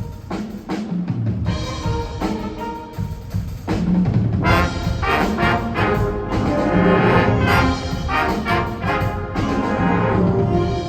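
A high-school winter winds ensemble of wind instruments and percussion playing its show music. The music builds about four seconds in to a louder full-ensemble passage.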